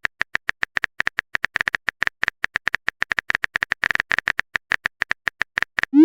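Chat-app keyboard typing sound effect: a fast run of short, even clicks, about eight a second, as a message is typed. Right at the end a short rising swoosh, the sound of the message being sent.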